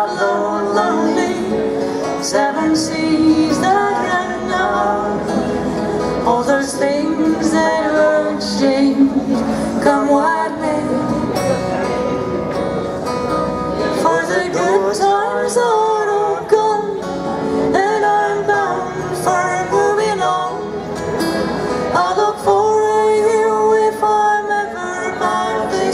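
Folk song sung with acoustic guitar accompaniment: a sung melody over strummed, plucked chords, running on through a chorus.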